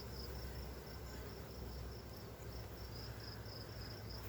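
Insect chirping: a high, thin note pulsing evenly about four to five times a second, over a faint steady low hum.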